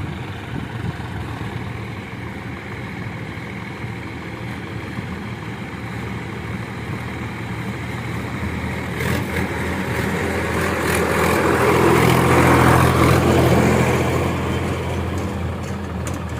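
John Deere 5105 tractor's three-cylinder diesel engine running under load, growing louder to a peak about twelve seconds in, then easing back.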